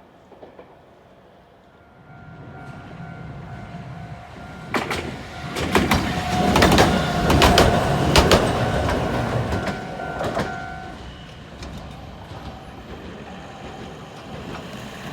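A train passing on the track: a rumble builds about two seconds in, grows loudest midway with sharp wheel clacks over the rail joints and a steady whine, then fades away.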